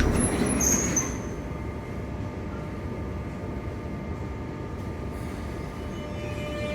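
Electric train on the rails, a steady rumble with faint humming tones and a brief high squeal about half a second in.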